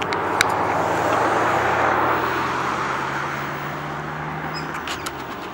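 A motor vehicle passing by: a low engine hum under a rushing noise that swells to its loudest about two seconds in, then slowly fades.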